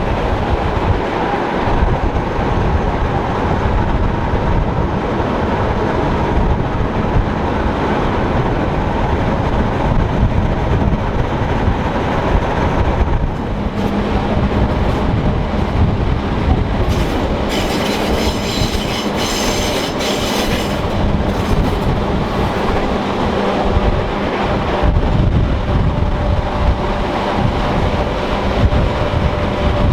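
Rhaetian Railway electric train running on the Bernina line, a steady rumble and clatter of wheels on rail. About two-thirds of the way through, a high-pitched wheel squeal comes in for a few seconds.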